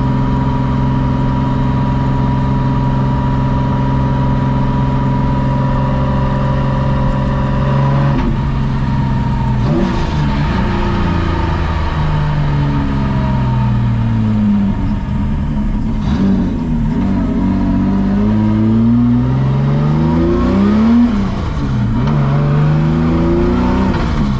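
Nissan Skyline R32 drift car's engine holding steady revs for about eight seconds, then revving up and down several times, rising and falling in pitch.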